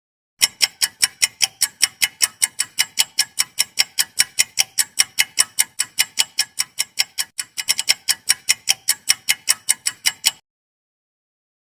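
Clock-ticking sound effect: a fast, even tick of about five ticks a second that starts suddenly, runs for about ten seconds and cuts off, the kind used as a quiz answer timer.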